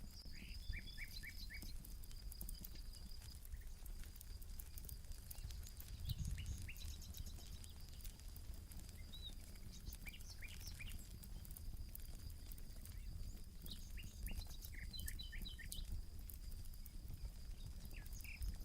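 Campfire crackling, with birds chirping in short quick runs of notes every few seconds and a steady high-pitched tone behind them.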